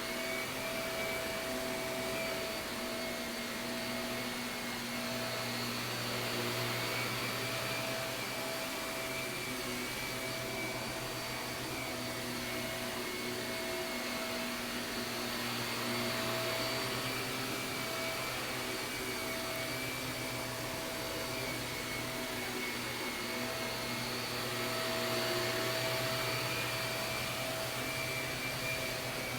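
Shark vacuum cleaner running steadily while vacuuming carpet, its motor holding several steady tones. The sound swells slightly about every nine seconds.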